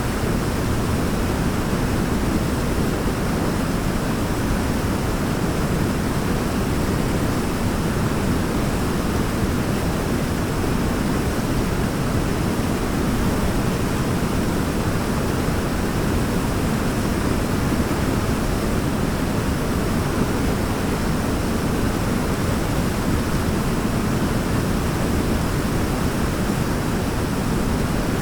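Waterfall: falling water in a steady, unbroken rush, heaviest in the low range, with no change or distinct events.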